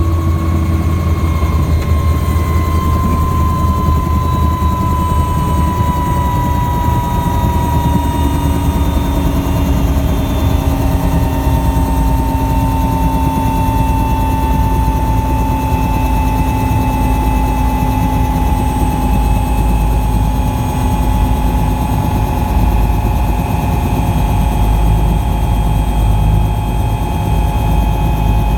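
Helicopter in flight, its engines and rotor running steadily with a heavy low rumble. A turbine whine slowly falls in pitch over the stretch.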